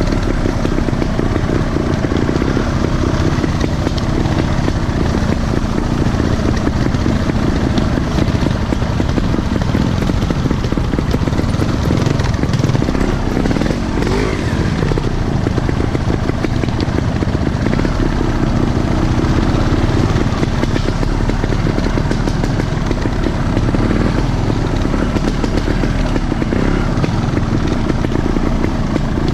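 Off-road motorcycle engine running steadily, with the revs briefly rising and falling about halfway through.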